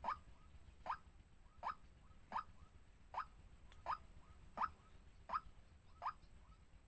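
Waterhen calling: a short upward-sliding note repeated nine times at an even pace, about one every three-quarters of a second.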